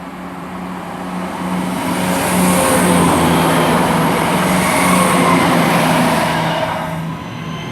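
Two coupled two-car Class 170 Turbostar diesel multiple units passing straight through a station without stopping. The diesel engines and wheels on the rails build up from about a second in, peak through the middle and die away near the end.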